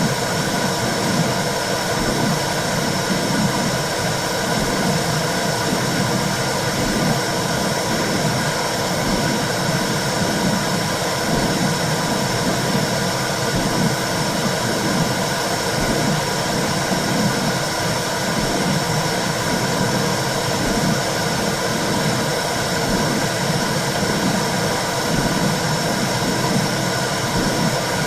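Womb sound for soothing a baby: a steady whooshing noise with a slow, regular low pulsing, like a mother's heartbeat and blood flow heard from inside the uterus.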